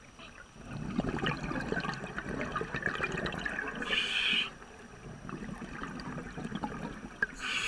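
Bubbling, gurgling water that starts about a second in and eases off after about four and a half seconds.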